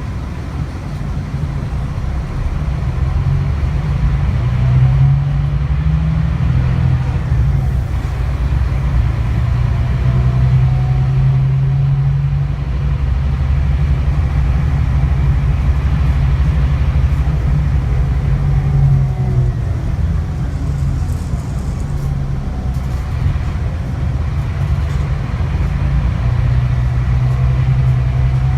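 Scania K360IB coach's engine running under way, a steady low drone whose pitch shifts up and down several times as the bus changes speed, with a faint whine rising and falling above it.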